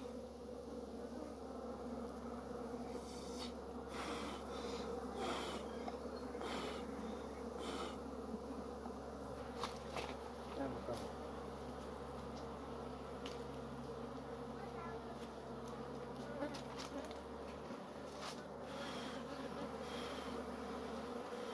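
Honey bees buzzing in a steady hum around an opened hive, with a few short clicks.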